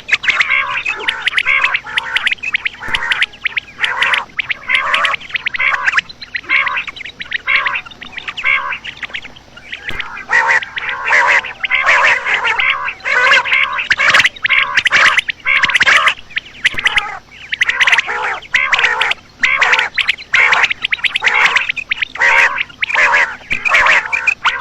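Female common quail calling: fast runs of short, repeated notes with brief pauses between runs, the call that hunters play to draw quail.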